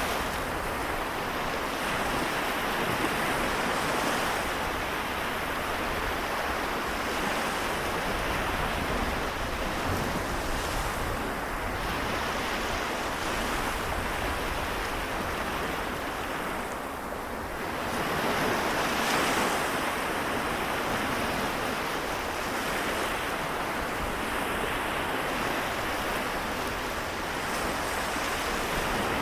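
Small waves of the Seto Inland Sea washing on the shore, a steady wash that dips briefly a little past halfway and swells again just after.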